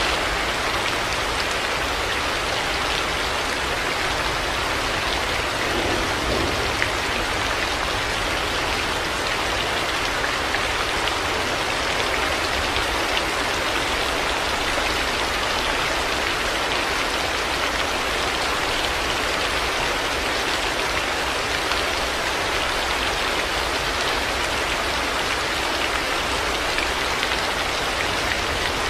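Steady heavy rain falling and pattering on surfaces, an even wash of sound with scattered individual drop taps.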